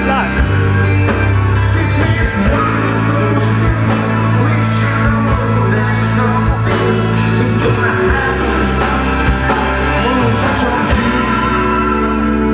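Live rock band playing, with singing over sustained bass notes and a steady beat of about two hits a second.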